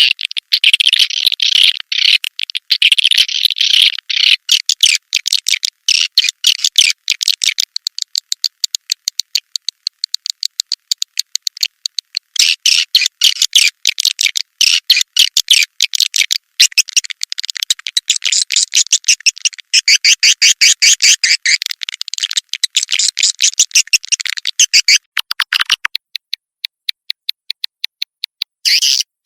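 Swiftlet calling track: dense, high-pitched twittering chatter of swiftlets in fast runs of short chirps, the kind of call played to lure swiftlets into a bird house. The chatter breaks off for about two seconds near the end, then resumes.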